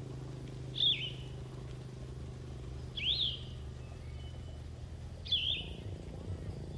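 A bird calling three times, short sharp chirps about two seconds apart, each sweeping up and down in pitch, over a low steady hum.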